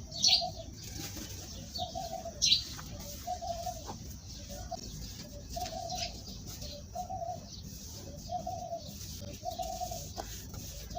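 A bird cooing over and over, one short low note about every second, with two louder sharp high-pitched sounds near the start.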